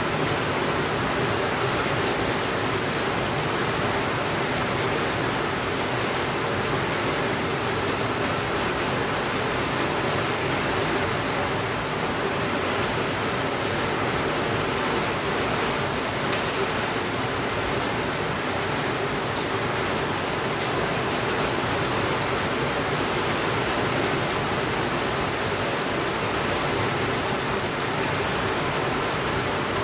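Steady rainfall, an even hiss that does not change. A few faint crackles from a wood fire come through about halfway in.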